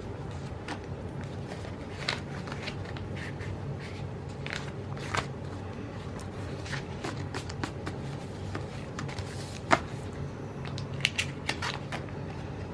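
Stickers and paper pages being handled: scattered small clicks, taps and rustles of paper, with a sharper tap near the end, over a steady low hum.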